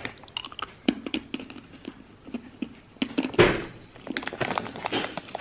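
Close-up chewing of crunchy caramel candy-coated chocolates (M&M's Crunchy Caramel): irregular small crunches and clicks, with one louder thump about three and a half seconds in.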